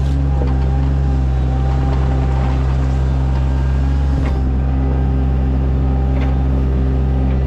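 Sany mini excavator's diesel engine running steadily under work, with a couple of faint knocks partway through.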